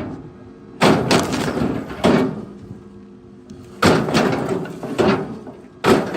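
Pieces of firewood knocking and clattering against one another in about five short bursts, as if thrown onto a pile. A faint steady low hum runs beneath.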